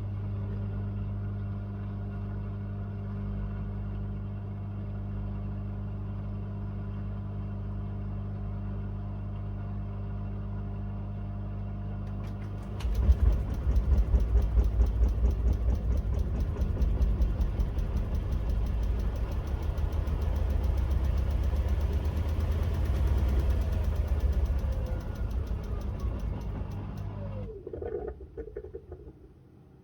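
Miele W1 front-loading washing machine running: a steady hum first, then about 13 seconds in the drum starts up with a louder, fast pulsing churn. Near the end a falling whine marks the drum slowing, and the machine goes quiet.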